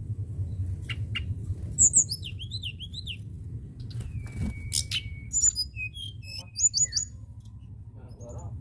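Caged songbirds singing: a string of separate high chirps, quick up-and-down whistled slides and short trills, over a steady low rumble.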